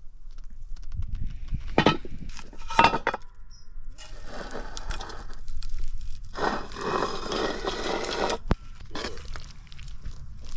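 Cookware and utensils being handled: two sharp knocks or clinks about two and three seconds in, then two stretches of scraping and rustling, and a single sharp click near the end.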